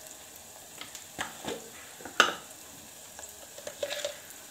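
Onions frying in oil in a clay pot (matka) over a low flame: a quiet steady sizzle broken by scattered sharp crackles, the loudest a little past two seconds in.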